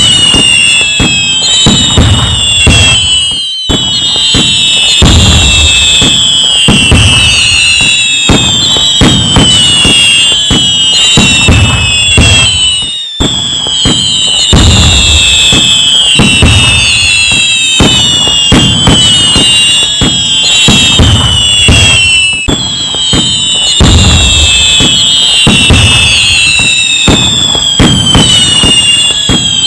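Loud fireworks going off without pause: bangs, crackling and low booms, with many overlapping whistles that fall in pitch, coming again every few seconds. The sound dips briefly twice, at about three and a half and thirteen seconds in.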